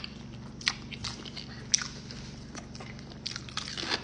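A person chewing a mouthful of creamy chicken spaghetti close to the microphone. The wet mouth clicks and smacks come irregularly, with two sharper ones about a second and two seconds in and a quick run of them near the end.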